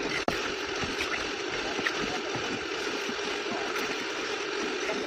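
Steady machine noise, like an engine running without a break, with a momentary dropout about a quarter second in.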